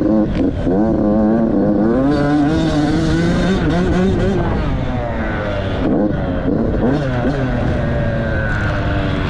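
Dirt bike engine revving hard while riding: its pitch climbs, drops back at each shift or throttle-off, then climbs again, several times.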